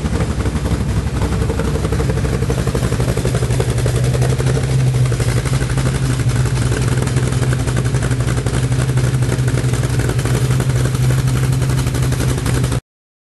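1974 De Tomaso Pantera's Ford 351 Cleveland V8, running on Holley Commander 950 electronic fuel injection, idling steadily through its exhaust. The sound cuts off suddenly near the end.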